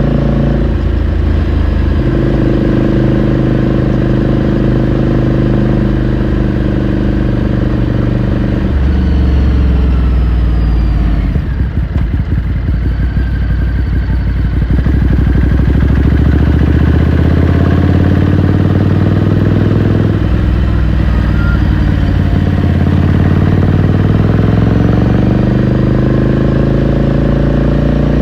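Ducati Scrambler Sixty2's 399 cc air-cooled L-twin engine and exhaust while riding. It runs steadily, drops in revs about ten seconds in to a low, uneven beat for a few seconds, then picks up and climbs through the revs again.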